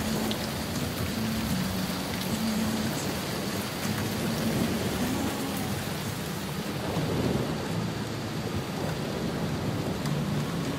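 Heavy rain on a moving car, heard from inside the cabin, with the hiss of tyres on the wet road and a low hum underneath.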